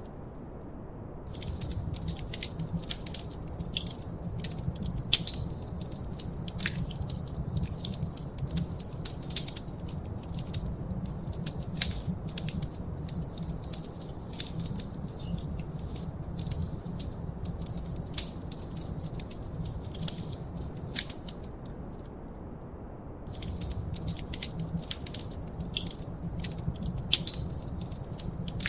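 Wood fire crackling and popping: irregular sharp pops and snaps over a steady low rumble of the flames. The crackling stops for about a second at the start and again a little over twenty seconds in, then resumes.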